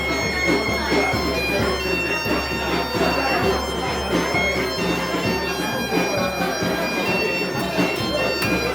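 Galician bagpipe (gaita) playing a lively tune over its steady drone, with a drum (tambor) beating along.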